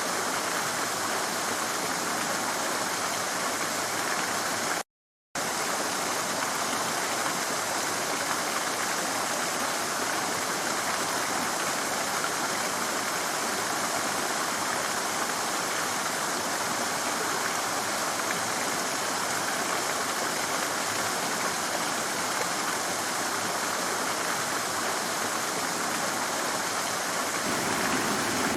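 Stream water rushing and splashing over rocks in a steady, unbroken rush. It cuts out completely for about half a second around five seconds in.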